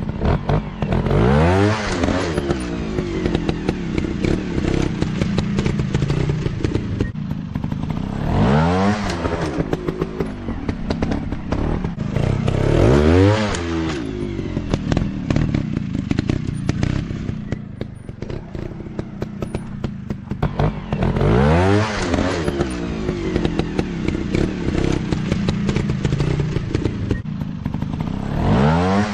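Dirt bike engines revving hard in about five surges, each note climbing and then dropping away, over a continuous drone of other engines. Some clattering and thuds come through in between.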